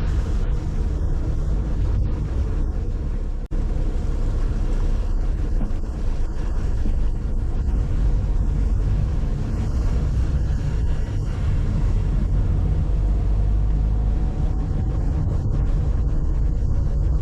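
Car on the move: a steady low rumble of road and engine noise, broken once by a split-second dropout about three and a half seconds in.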